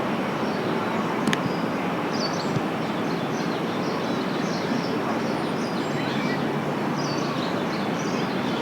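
Birds chirping, many short high calls from about two seconds in, over a steady roar of background city noise.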